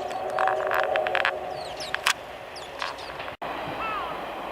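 Lingering, fading chord of a steam locomotive's chime whistle (the SL Ginga's C58 239) just after a blast, dying away over about three seconds, with a few short high chirps over it.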